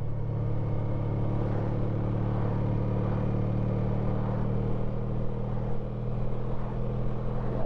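Honda ST1300 Pan European's V4 engine running at a steady pace under way, with the rush of wind and road noise, heard from the bike.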